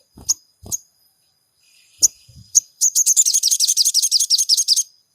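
Sogon songbird calling: a few sharp single chips, some paired with dull low thumps, then about a second and a half in a fast chattering trill of quick downward-slurred notes, roughly ten a second, that runs for about two seconds and stops. A faint steady high tone sits underneath.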